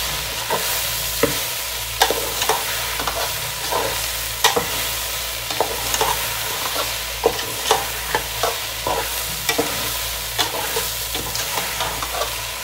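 Chopped okra frying in a metal pot and being stirred with a metal spoon: a steady sizzle with frequent scrapes and clinks of the spoon against the pot.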